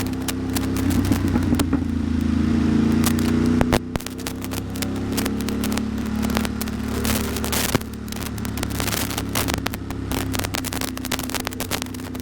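Ducati Monster V-twin engine running steadily at low speed, its note dropping and getting quieter about four seconds in as the throttle eases. Frequent sharp clicks and crackles sound over it throughout, typical of raindrops hitting the microphone.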